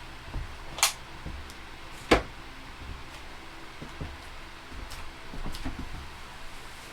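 Sharp knocks and clunks of a Whirlpool over-the-range microwave being handled and lifted into place against its wall mounting plate and cupboard, the loudest about two seconds in, with lighter taps and bumps after.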